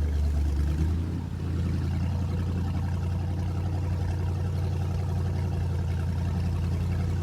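Boat motor running steadily, a low hum that shifts slightly about a second in.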